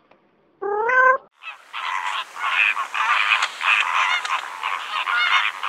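A single cat meow about half a second in. From about a second and a half, a flock of geese honks, many calls overlapping in a dense chorus.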